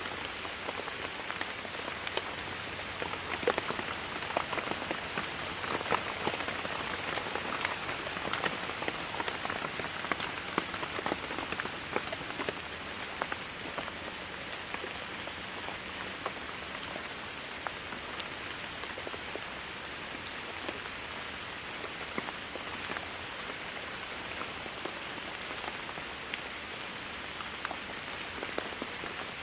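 Steady rainfall with many separate drops pattering on a surface, heavier and more spattering for the first third, then settling into an even patter.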